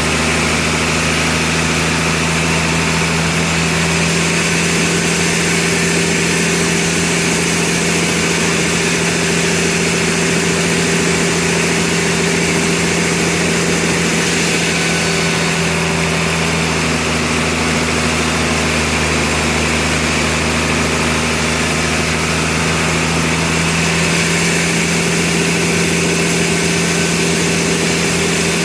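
Sawmill saw and its drive engine running steadily: a constant mechanical hum with a loud even hiss over it.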